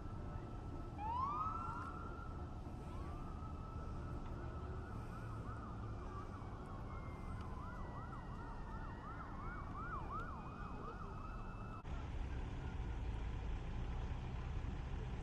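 Emergency vehicle siren winding up with a rising wail, then switching to a fast yelp. It cuts off abruptly about twelve seconds in, leaving a low steady rumble.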